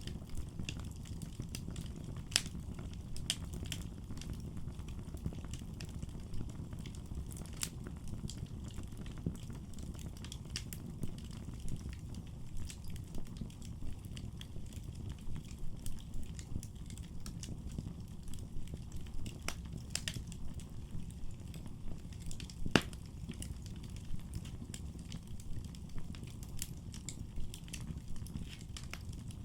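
Wood fire burning in a fireplace, crackling and popping at irregular moments over a low, steady rumble of the flames, with one sharper pop a little before the end.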